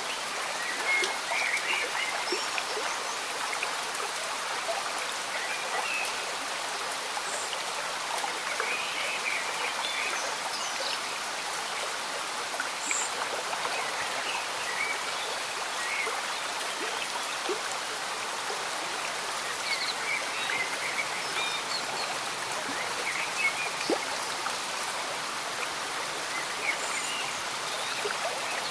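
Slow stream bubbling and trickling under steady gentle rain, a continuous hiss with small gurgles and drips scattered throughout.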